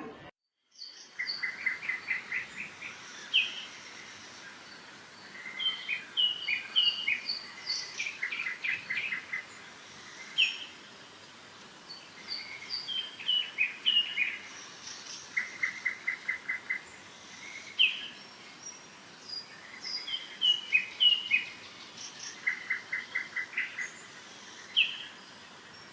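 A songbird singing, repeating a phrase of short clear whistled notes and a quick trill every few seconds, over a steady high hiss of insects or background noise.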